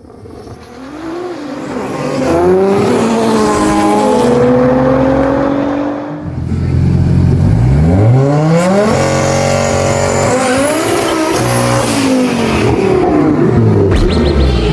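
Car engines revving hard, their pitch rising and falling several times, with a long rising rev about halfway through.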